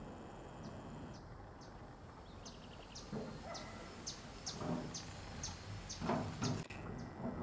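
A bird calling a steady series of short, high, downward-slurred chirps, about two or three a second. Low rustling thumps come in and out, loudest about six seconds in.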